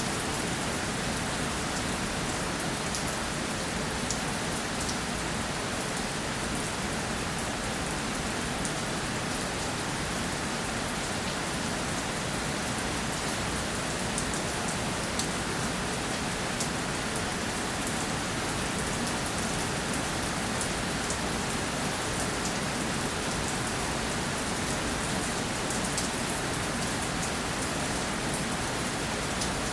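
Steady rainfall, with fine drops pattering on a surface; the sound holds even throughout.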